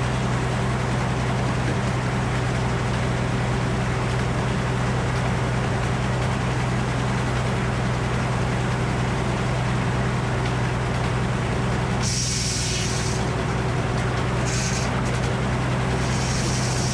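Frick circular sawmill and its engine running steadily with a low hum. About twelve seconds in, a higher hiss joins in and comes and goes.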